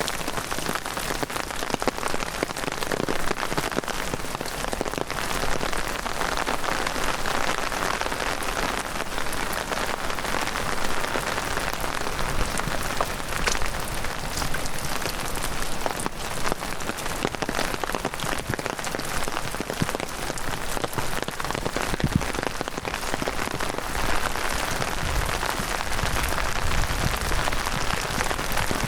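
Heavy rain falling steadily: an even hiss of rain with many sharp, close drop impacts scattered through it.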